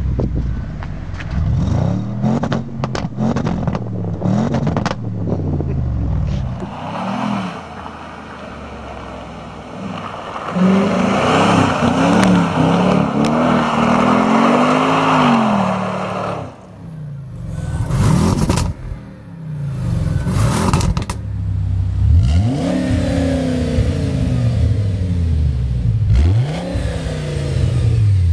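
Audi RS6 engine and exhaust revved hard again and again, the pitch swinging up and falling back in quick blips. In the middle comes a longer, louder rev held for several seconds.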